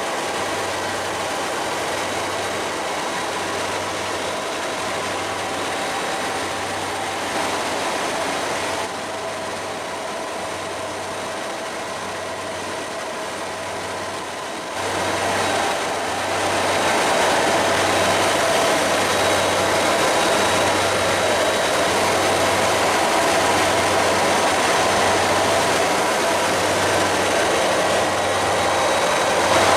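Helicopter cabin noise in flight: a steady engine and rotor drone with a high whine, dipping a little for several seconds mid-way before rising again.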